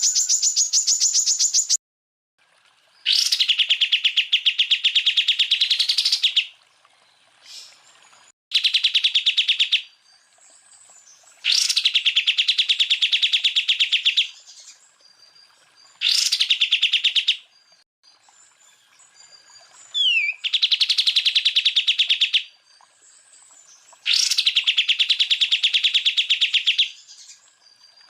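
Cucak ijo (green leafbird) singing in repeated bursts of very rapid trilled notes, each about two to three seconds long with short pauses between. Several bursts open with a high note that drops into the trill. The first burst is higher-pitched and stops about two seconds in.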